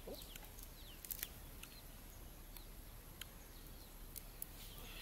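Faint background of birds chirping, with many short, quick downward chirps, over a quiet outdoor hush. A few light clicks are scattered through it.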